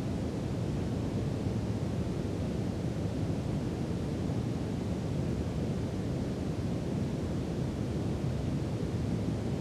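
Steady brown noise: an even, deep rushing hiss with its weight in the low end, unchanging throughout.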